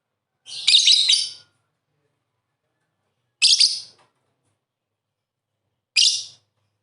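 Lovebird giving bursts of shrill, chattering chirps: three separate bursts, the first lasting about a second and the later two shorter, with silence between them.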